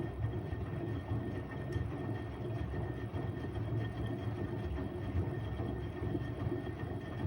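Washing machine running: a steady low rumble with a thin, steady high motor whine above it.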